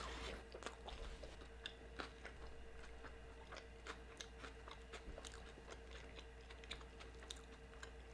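Faint chewing, with scattered wet mouth clicks, of someone eating a soft, consommé-soaked birria torta. A faint steady hum lies underneath.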